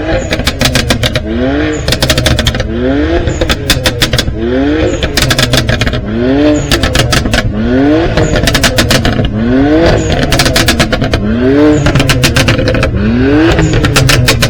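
A car engine revved over and over, about once every second and a half. Each rev rises quickly in pitch, and a burst of crackling follows as the revs drop.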